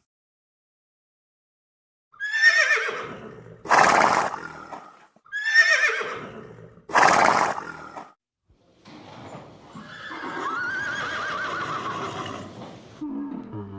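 Horse whinnying: two falling whinnies, each followed by a loud breathy blast, then a longer, quieter whinny near the end.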